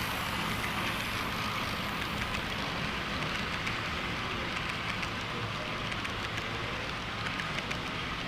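HO scale model train running on layout track: a steady rolling hum with scattered light clicks.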